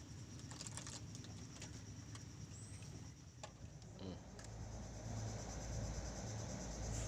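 A steady high insect chorus, crickets or similar, with scattered light clicks and taps during the first few seconds. A low rumble sets in about four seconds in.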